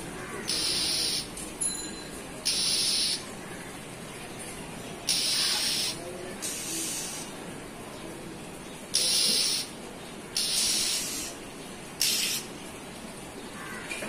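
A small perched bird giving short, harsh, hissing calls, about eight at irregular intervals, over a steady hum of town noise.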